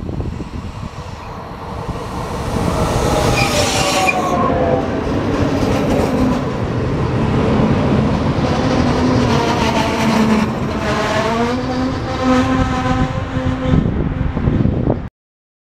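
A Trenitalia Minuetto electric multiple unit passes close by: wheels rumble and click over the rails, and whining tones from its drive slide in pitch as it goes past. The sound cuts off abruptly near the end.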